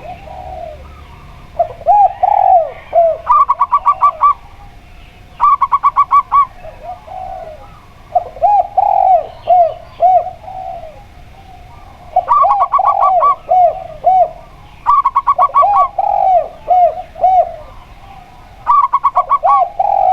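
A zebra dove and a spotted dove calling in turn and overlapping. There are bouts of low, rounded cooing phrases and quick runs of short, higher staccato coo notes, repeated about five times.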